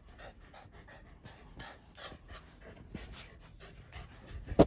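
Dog panting close by, about two to three breaths a second. A single sharp knock near the end.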